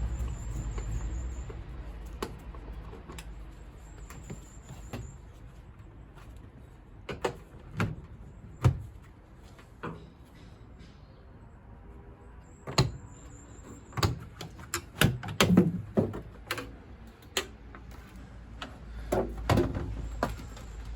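Knocks, clanks and clicks of the metal casing and parts of a gas combi boiler being handled and taken apart, in irregular bursts that are loudest and most frequent in the second half.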